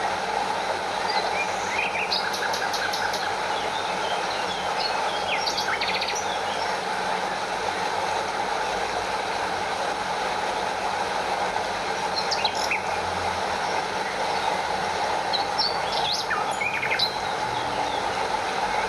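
Steady rush of a stream flowing over a small waterfall, with birds chirping briefly several times over it.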